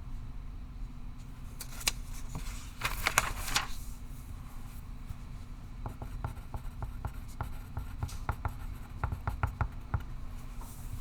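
Pencil writing on paper: short scratchy strokes, a denser run of scribbling about two to four seconds in, then lighter short strokes and ticks, over a steady low room hum.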